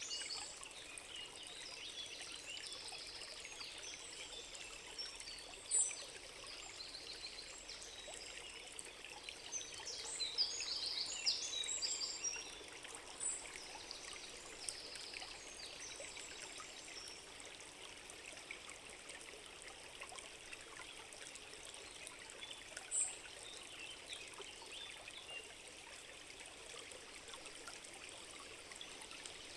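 Steady rush of a small forest stream, with short high bird chirps over it, many in the first half and one more a little after twenty seconds.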